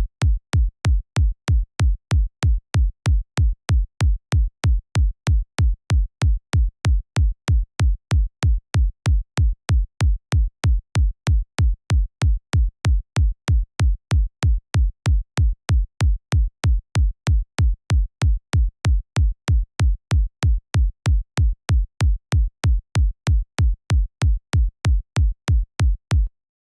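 Synthesized electronic kick drum, made in the Kick 2 plugin, looping steadily four-on-the-floor at about two hits a second, each hit a deep low thump with a short click on top. It cuts off abruptly near the end.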